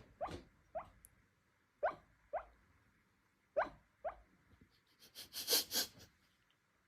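Dog yipping softly in its sleep: six short yips that each slide up in pitch, coming in three pairs, followed near the end by a few quick puffs of breath.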